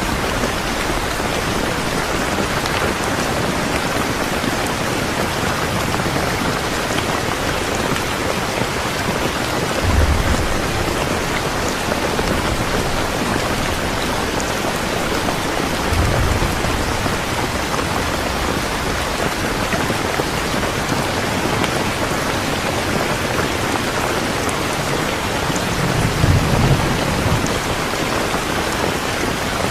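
Steady heavy rain falling. Three short low rumbles of thunder break through it: one about ten seconds in, one a few seconds later, and one near the end.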